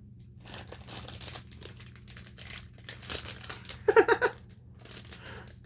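Plastic packaging crinkling and rustling in short bursts as items are pulled out of a package. A brief pitched sound of four quick pulses comes about four seconds in, the loudest moment.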